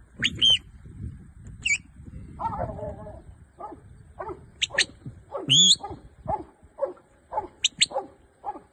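Sheepdog barking steadily, about two barks a second, driving a mob of ewes forward. High, sharp whistle-like calls sound now and then among the barks.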